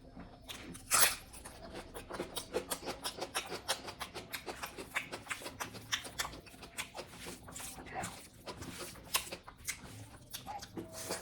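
Close-miked chewing and lip-smacking while eating oily pork curry with rice: a run of quick wet clicks, several a second, with a louder smack about a second in.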